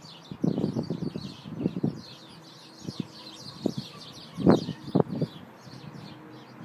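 Many small birds chirping and twittering without a break, with irregular low rustles and thumps close by. The loudest thumps come about four and a half and five seconds in.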